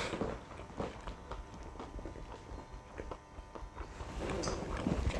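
A person chewing fried chicken close to the microphone: soft, irregular crunches and wet mouth clicks.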